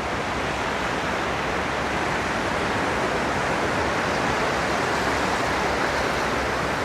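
Steady rushing noise of surf and wind on an open beach, swelling slightly in the first second and then holding even.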